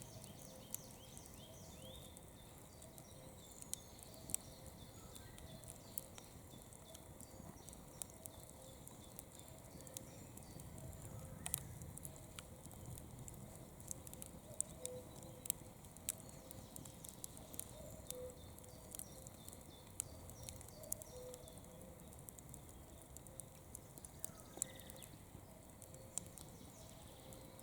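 Campfire crackling: irregular sharp pops and snaps of burning wood over a low, steady hiss.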